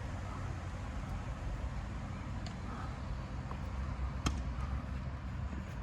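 A tennis ball struck once by a racket, a single sharp pop about four seconds in, with a few fainter ball taps before it, over a steady low rumble.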